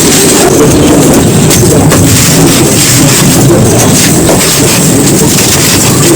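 Dry, semi-gritty balls being crushed and crumbled by hand, making a loud, dense, continuous crunching made of many small cracks and grains falling.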